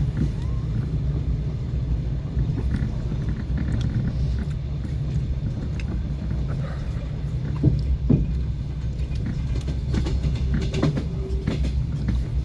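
Passenger train running, heard from inside the carriage: a steady low rumble of the wheels on the rails, with two sharp knocks in quick succession about eight seconds in.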